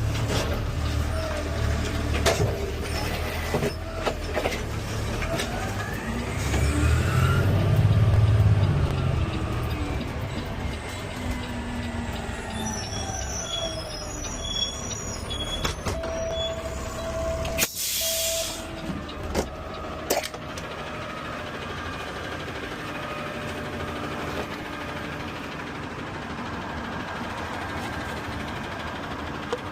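Automated side-loader garbage truck at work: the engine runs steadily under rising and falling whines in the first third, with a loud low rumble about eight seconds in. About two thirds through comes a short air-brake hiss, followed by a few knocks.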